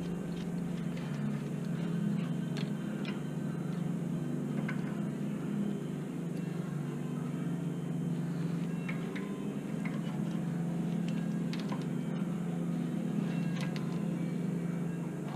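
A steady low hum under scattered light metallic clicks and taps from hand tools being worked on a car's rear brake assembly.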